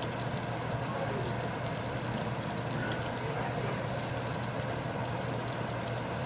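Chicken nuggets frying in hot oil: a steady sizzle with scattered small pops, over the constant hum of the stove's range hood fan.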